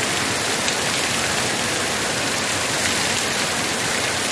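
Heavy rain pouring down in a dense, steady hiss with wind, drops pattering on surfaces.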